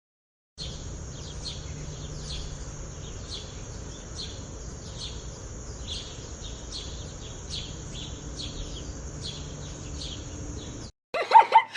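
After a brief silence, a small bird chirps over and over, about two short falling chirps a second, over a steady high hiss and a low background rumble. A dog starts barking loudly near the end.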